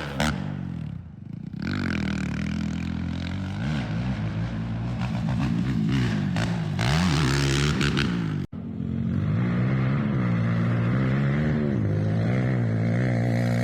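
Small dirt bike engine revving up and down as it is ridden, its pitch rising and falling repeatedly, with a brief break about eight and a half seconds in.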